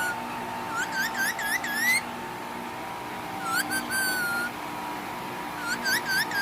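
Pet parakeet whistling: a quick run of about five rising chirps, then a chirp and a longer held note, then another run of rising chirps near the end.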